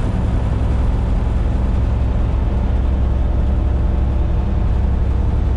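Semi-truck cab at highway speed: a steady low diesel engine drone with road and tyre noise.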